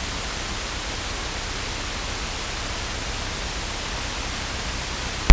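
Steady hiss of an aircraft radio and intercom audio feed between tower transmissions, with a faint low rumble beneath it. A sharp click comes right at the end as the next transmission keys in.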